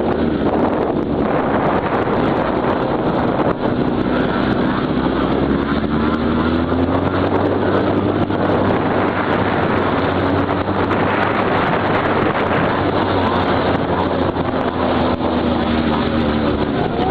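Small motorcycle engine running steadily, its pitch slowly rising and falling as the throttle changes.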